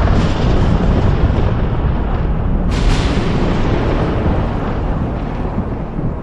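Thunder rumbling heavily, with a sharp crack of a closer thunderclap about three seconds in that trails off into the rumble.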